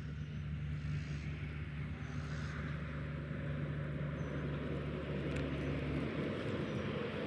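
Low engine hum of a passing vehicle with a rising rumble, growing slowly louder as it comes closer.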